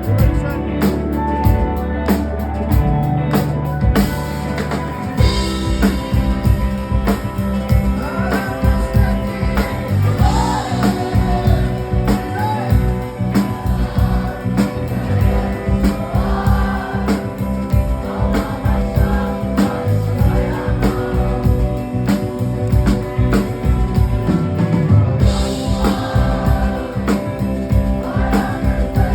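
Live rock band playing, with drums, bass and guitar, and a singing voice coming in a few seconds in, recorded in a concert hall.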